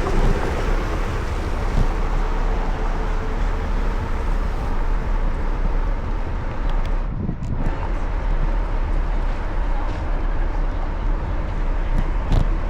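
Wind buffeting the microphone of a moving bicycle rider, a steady rushing noise that briefly drops away about seven seconds in.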